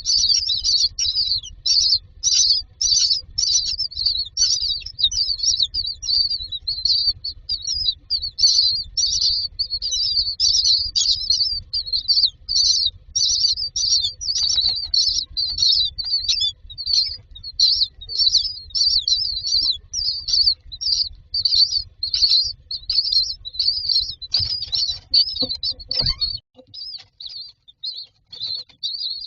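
Common myna nestlings begging: a dense run of rapid, repeated high-pitched chirps that thins out near the end. A faint low rumble underneath cuts off after a brief scuffle near the end.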